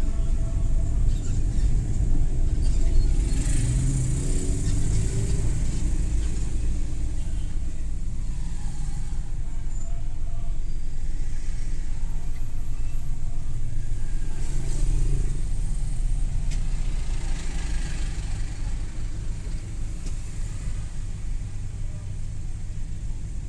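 Suzuki Every Wagon's small 660 cc three-cylinder engine and road noise while driving at city speed, a steady low rumble. Other vehicles pass by around three to five seconds in and again around fifteen to eighteen seconds in, and the sound eases off slightly near the end.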